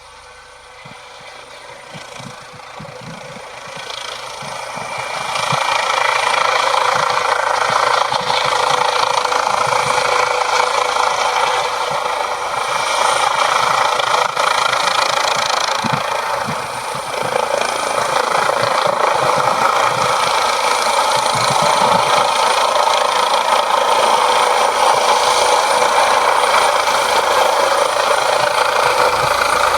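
Helicopter approaching, its rotor and engine noise growing louder over the first six seconds, then staying loud and steady as it comes in close.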